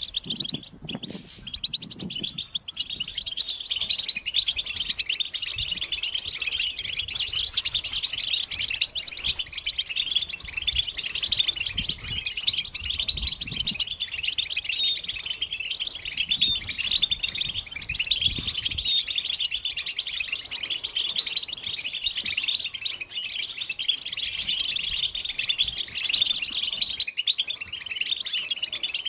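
European goldfinches chattering and singing together, an unbroken stream of rapid, twittering chirps.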